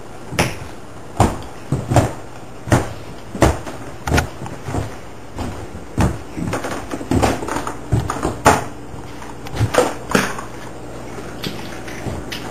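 A series of sharp knocks and thumps, roughly one a second and uneven in the second half, over a faint steady low hum.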